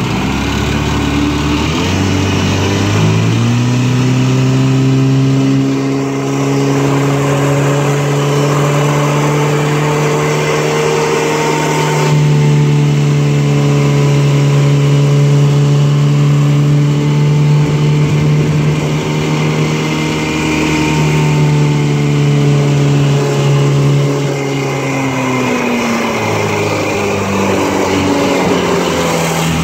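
1953 Johnson QD-14 10 hp two-stroke twin outboard motor running on the water. It is throttled up about two seconds in, held at a steady high speed, and eased back down near the end.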